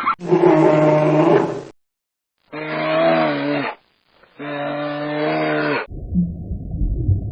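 A cow mooing three times, each moo a drawn-out low call lasting over a second, with short gaps between. About six seconds in a different low rumbling sound begins.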